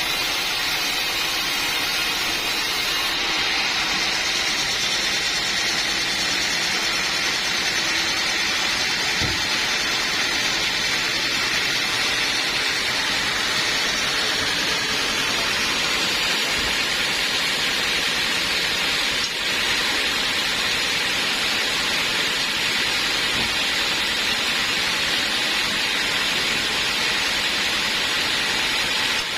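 Sawmill saw running steadily, a continuous even machine noise with no pauses or changes.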